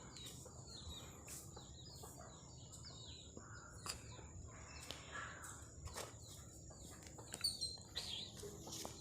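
Faint outdoor background of birds chirping now and then, over a steady high thin tone and a few soft clicks.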